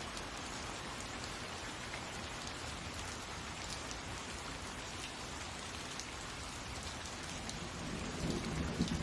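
Steady rain, an even hiss of rainfall, swelling slightly with a low rumble near the end.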